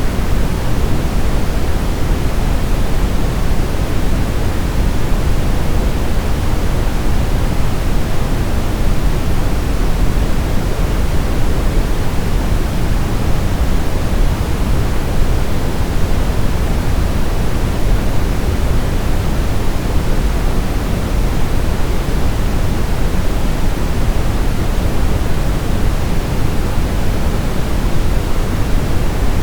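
Steady brown noise: a constant, even hiss weighted toward the low end, without change or pattern.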